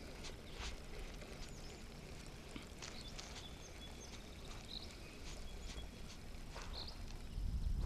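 Outdoor lake ambience: a low, fluctuating wind rumble, with a few faint bird chirps and scattered small clicks.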